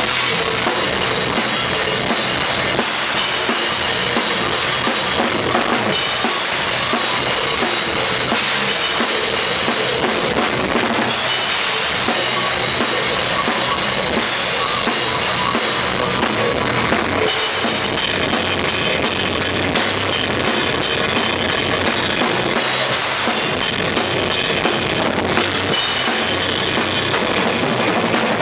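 Tama Starclassic drum kit with Paiste cymbals played hard in a metal style for a sound check: driving bass drum under a constant cymbal wash. The cymbals drop out briefly a few times, and a run of fast, tightly spaced hits comes about two-thirds of the way through.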